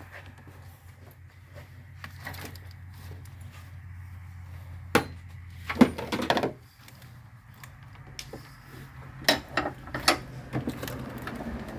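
Scattered knocks and clatters of tools and parts being handled during an engine teardown, over a steady low hum. The knocks come in a louder cluster about halfway through and again a few seconds later.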